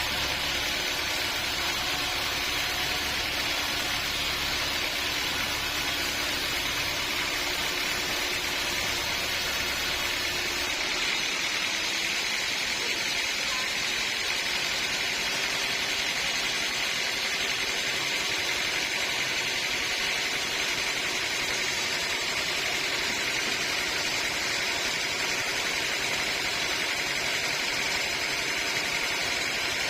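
Sawmill machinery running steadily, a constant mechanical noise. The deep low rumble drops away suddenly about a third of the way through, and the higher noise carries on.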